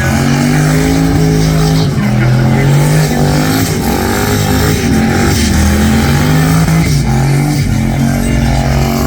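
Twin-turbo LS V8 of a Toyota Starlet burnout car revving hard mid-burnout, its pitch rising and falling again and again as the throttle is worked, over the noise of spinning tyres.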